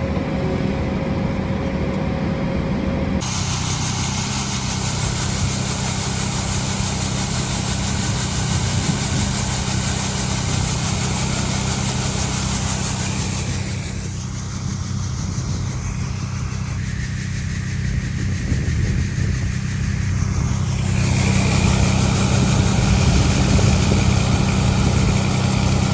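Combine harvester's diesel engine running steadily under load. Its sound shifts about three seconds in and again around fourteen seconds, and grows louder about twenty-one seconds in.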